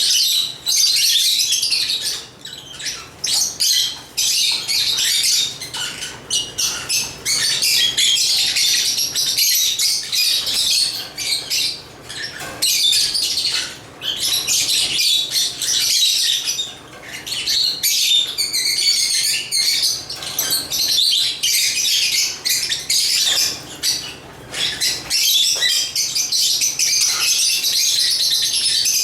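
African lovebirds chirping and squawking together in dense, high-pitched bouts of a few seconds each, with brief lulls between.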